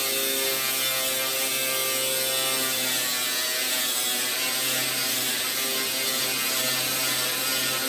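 Angle grinder running steadily under load with a wire wheel or bristle disc, stripping paint and rust from sheet metal: a constant hum with a dense scratchy hiss over it.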